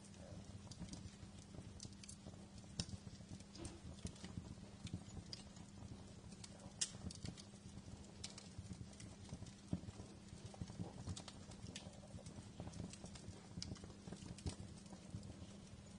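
Wood fire crackling in a fireplace: irregular small pops and snaps over a low rumble, with a sharper snap about seven seconds in.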